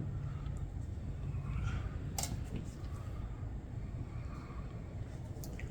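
Light clicks and taps of hand tools and small metal parts during carburetor disassembly, over a low steady room hum. The sharpest click comes about two seconds in and a smaller one near the end.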